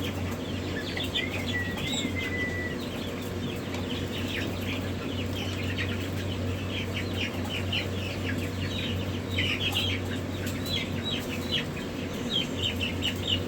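Many young chicks peeping: a dense run of short, high chirps, with a few longer sliding peeps in the first couple of seconds. A steady low hum runs underneath.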